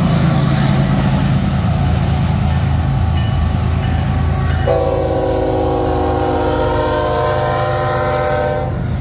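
Union Pacific diesel freight locomotive passing with a heavy engine rumble and wheels on the rails. About halfway in, its air horn sounds one steady chord of several notes, held for about four seconds and cut off shortly before the end.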